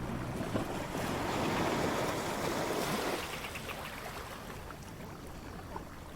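Waves washing onto a beach: one wave swells and breaks over the first three seconds, then the surf eases off into a softer wash.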